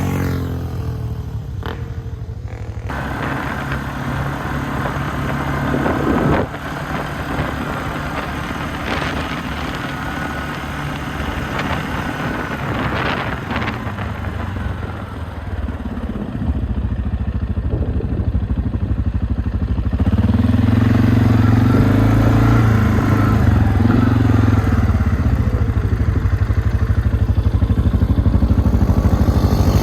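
ATV engine running while riding, its pitch rising and falling with the throttle, with a few knocks of the machine over the ground. It grows louder about two-thirds of the way through and holds a stronger, steadier note.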